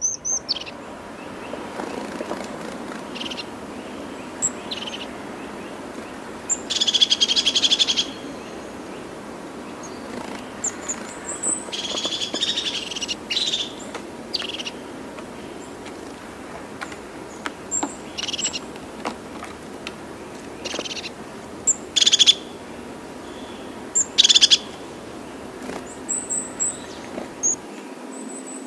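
Birds calling: short high chirps every second or two and a few longer trilled calls of about a second each, over steady background noise.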